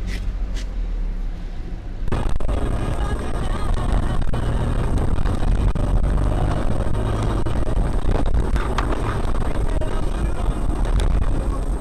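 Steady road and engine noise of a moving car, as picked up inside the vehicle, becoming abruptly louder and fuller about two seconds in.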